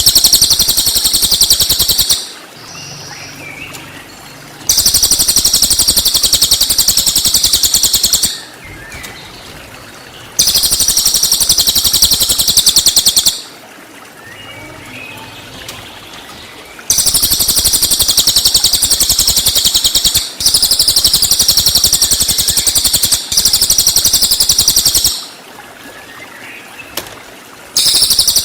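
Cililin singing its rapid-fire 'tembakan' song: very high, fast-pulsed trills, each lasting two to four seconds, repeated about six times with short pauses between.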